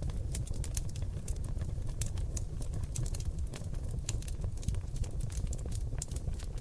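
Seasoned oak logs burning in a fireplace, crackling and popping with many sharp, irregular snaps over a steady low rumble of the flames.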